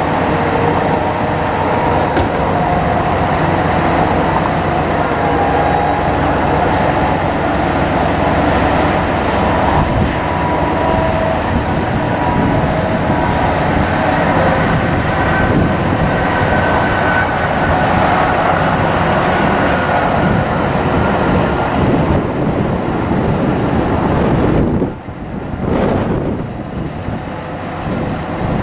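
A bucket truck's engine running with the PTO engaged to drive the hydraulic boom: a steady loud mechanical noise with faint wavering whine tones from the hydraulics, dropping briefly in level near the end.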